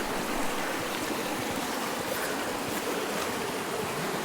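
A hill stream running: a steady, even rush of flowing water.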